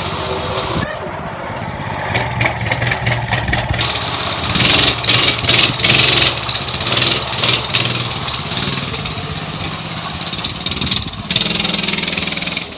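Small pull-start dirt bike engine running, revved in several surges about five to eight seconds in, then running louder and at a higher pitch near the end.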